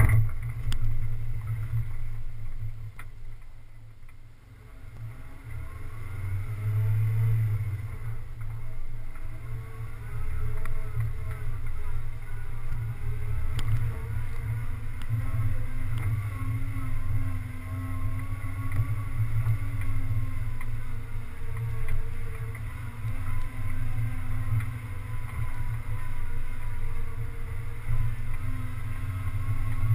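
A 4x4's engine running as it drives slowly along a rough dirt trail, heard from a camera on the hood, with a heavy low rumble of wind and bumping on the microphone. The engine note wavers up and down with the throttle and dips quieter about four seconds in.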